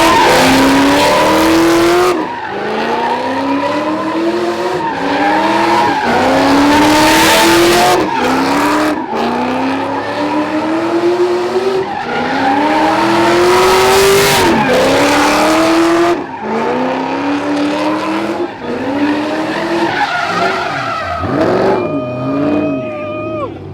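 A car engine revved hard over and over, its pitch climbing and falling back about every two seconds, over the loud hiss and squeal of spinning tyres: a burnout. Near the end a few steady high tones join in.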